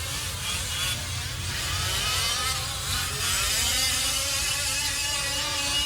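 Several 1/5-scale RC off-road trucks' small two-stroke gasoline engines buzzing, their pitch rising and falling as they rev up and back off around the track.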